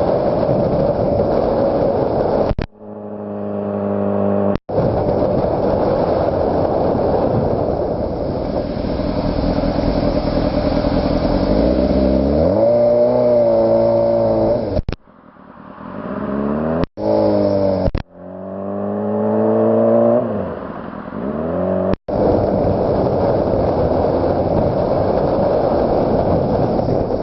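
Honda CBR600RR's inline-four engine heard from the bike at speed over heavy wind rush. It revs up and drops back several times, and the sound breaks off abruptly at a few points.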